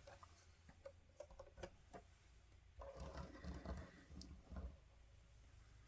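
Near silence with faint, scattered small clicks, and a brief low rustling rumble about three seconds in, typical of handling a model.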